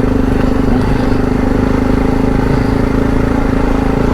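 Adventure motorcycle engine running at steady revs while riding off-road, its pitch holding nearly constant.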